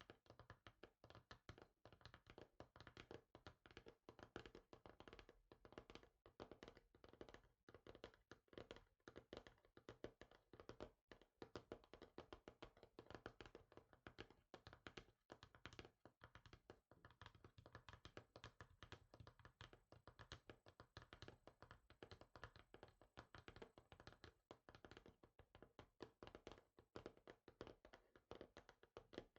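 Fingers tapping rapidly and continuously on a hard surface, many quick light taps a second without a break.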